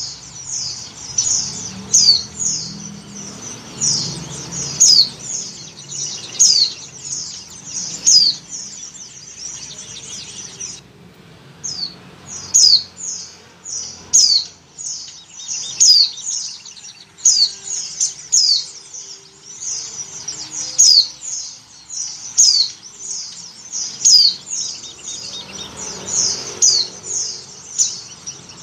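Female white-eye (pleci) calling in breeding condition, a call used to draw males: a steady run of short, high chirps that sweep downward, several a second, with a brief pause about eleven seconds in.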